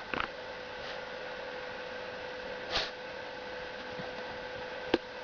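Steady electrical hum over a faint hiss, with a few brief noises: a short scuffle near the start, a breathy swell about three seconds in, and a sharp click near the end.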